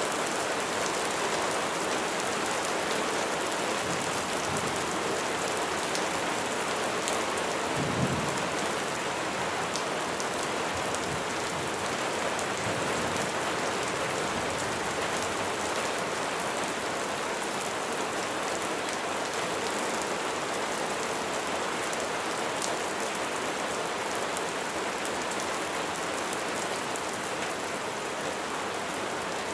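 Heavy rain falling steadily, with a short low rumble of thunder about eight seconds in.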